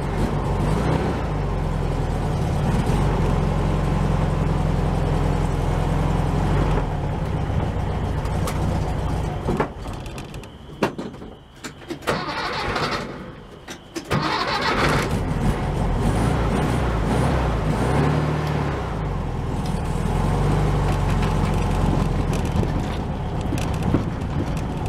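Air-cooled VW engine running, said to be out of gas. It cuts out about ten seconds in, and after a few seconds with a few clicks it starts and runs again.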